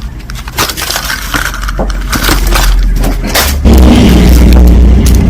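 Costume jewelry pieces clicking and clinking against each other as they are handled, a quick run of small knocks. About three and a half seconds in, a loud, steady low rumble starts and keeps going.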